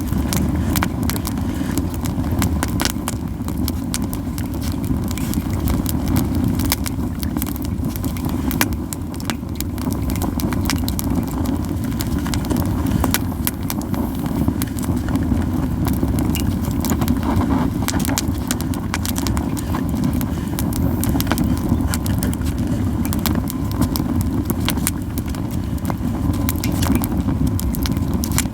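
Yew-wood campfire crackling, with frequent irregular sharp pops and snaps over a steady low rumble.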